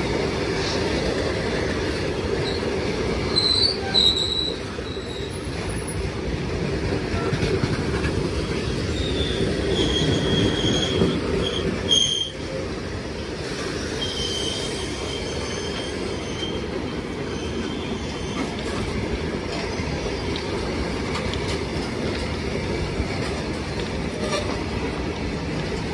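Freight train of open steel wagons rolling past: a steady rumble of wheels on rail, with several short, high wheel squeals in the first half.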